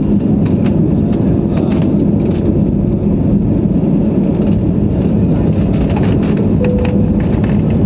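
Steady, loud low rumble of an airliner's engines and airflow heard inside the passenger cabin, with a constant hum and light clicks over it.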